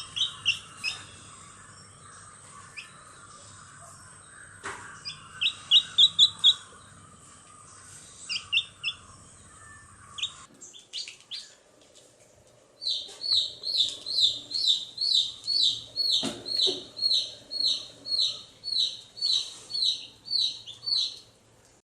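Small birds chirping in short high notes, in scattered clusters at first, then after a break about halfway a steady run of repeated chirps about two a second.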